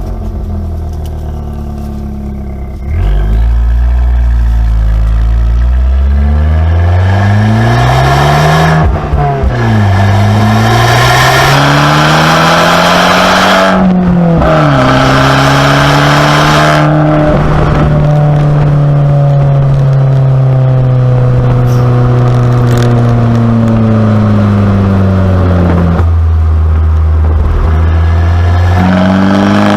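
Abarth 595C Competizione's turbocharged 1.4-litre four-cylinder engine through its Record Monza exhaust. About three seconds in it gets louder, then the note climbs in pitch twice with a drop between, falls back, and runs at a steady, slowly wavering pitch for the second half.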